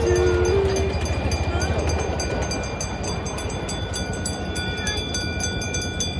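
Miniature train running: a rapid, even clicking over a low hum, easing a little after about two seconds.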